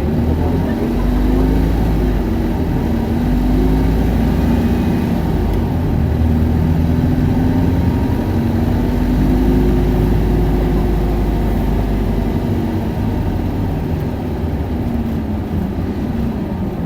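Isuzu Erga city bus's four-cylinder diesel engine heard from on board while the bus is running and accelerating. Its pitch climbs and falls back twice, with a heavy low rumble underneath.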